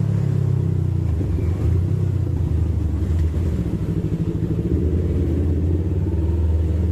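Yamaha MT-25's parallel-twin engine running at a steady pitch while riding.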